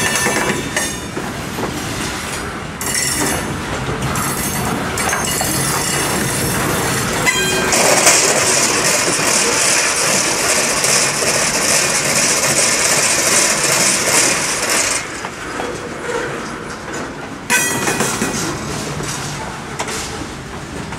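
Freight cars rolling past at close range, steel wheels running on the rails, with brief high wheel squeals near the start, around seven seconds and around seventeen seconds in. A loud high hiss from the wheels runs from about eight to fifteen seconds in.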